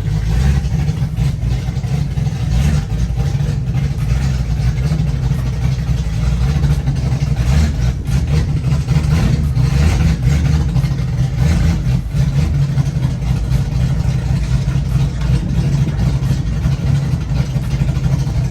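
Fox-body Mustang's engine running steadily at low speed, a deep even note with no big revs.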